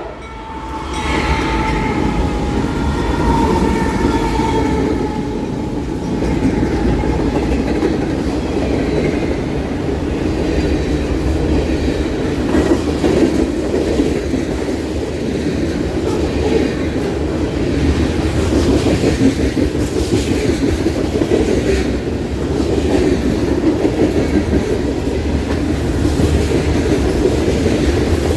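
Freight train rolling past: a steady rumble of rail cars, with wheels clicking over rail joints.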